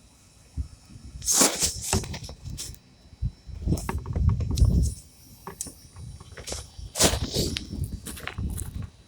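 Wind buffeting the microphone in irregular gusts. Sharp crackling knocks and rustles come twice, about a second in and again near seven seconds.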